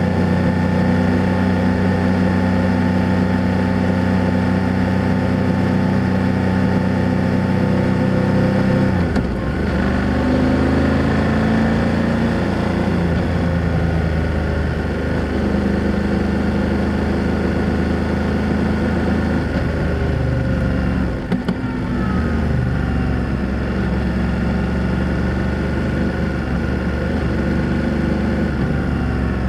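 BMW F800GS motorcycle's parallel-twin engine running under way, its exhaust note steady. The note dips briefly and changes pitch about 9 and 21 seconds in.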